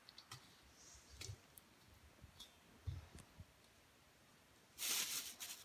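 Faint scattered clicks and soft knocks of small objects being handled, then a short rustling burst near the end.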